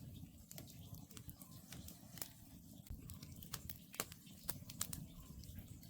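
Wood campfire crackling: irregular sharp snaps and pops of burning logs over a low, steady rumble of the flames.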